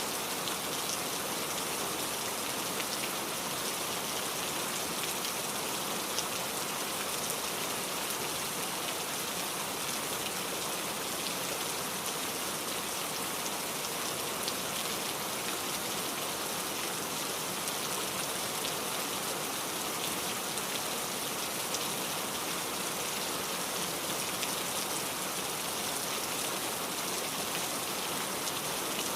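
Steady rain falling, with scattered drop ticks over an even hiss.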